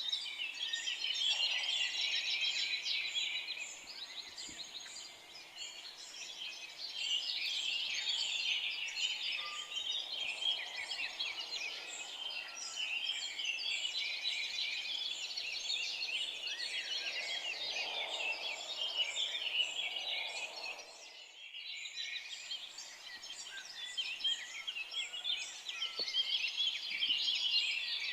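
Dense chorus of many small songbirds chirping and trilling over one another, with a short dip in the chorus about two-thirds of the way through.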